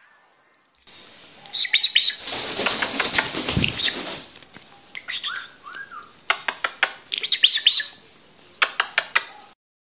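Small cage birds chirping in quick clusters of short, high calls, with a louder rustling flutter of wings about two seconds in.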